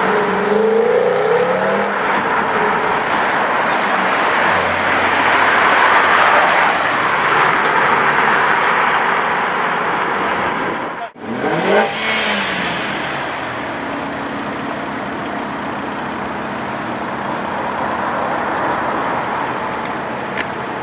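Tuned and sports car engines running and revving amid car noise, the engine pitch rising and falling in the first couple of seconds. About halfway through the sound cuts off abruptly, then an engine revs up and back down before the car noise settles to a steadier level.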